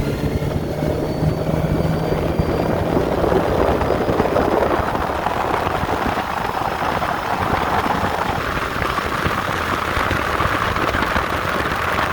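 Small boat's motor running at high throttle as the boat speeds across the water, with a loud rushing noise of wind on the microphone. A steady engine hum is clear for the first few seconds, then the rushing noise takes over and grows brighter.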